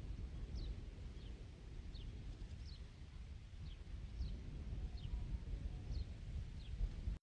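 A bird giving short, high, downward-sliding chirps, about one every 0.7 seconds, over a steady low rumble.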